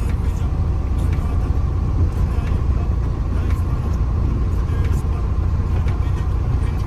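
A 28 ft box truck being driven, heard from inside the cab: a steady, strong low engine and road rumble with a faint steady hum above it.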